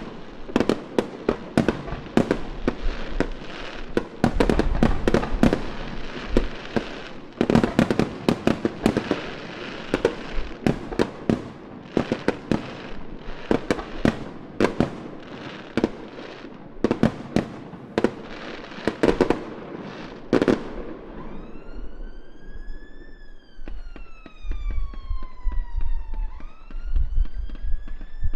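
A rapid barrage of firework bangs and crackles, many a second, that stops about three quarters of the way through. An emergency-vehicle siren then wails, rising and falling in pitch, through to the end.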